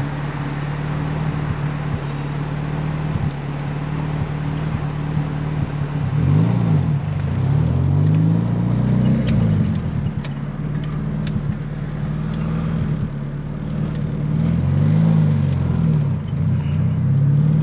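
Turbocharged B20 VTEC four-cylinder in a Honda Civic EG hatchback, heard from inside the cabin, running at low speed with a steady hum. Its pitch swells up and back down a few times, in two spells, one in the middle and one near the end.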